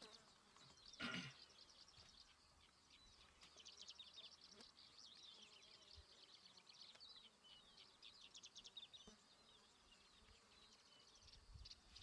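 Faint, high-pitched bird chirping and fast trilling calls, with a single knock about a second in.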